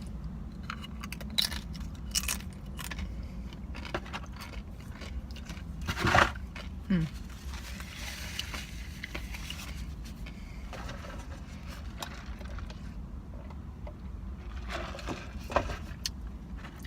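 Eating sounds: scattered bites, crunches and small clicks of food and packaging, over a steady low hum, with one louder crunch about six seconds in.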